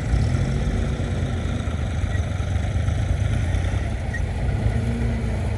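Classic car engines running as cars move slowly past in a queue: a steady low rumble.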